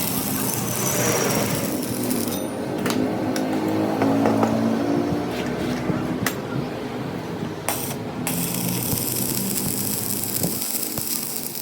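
A motor vehicle running steadily, with a few sharp clicks or knocks over it.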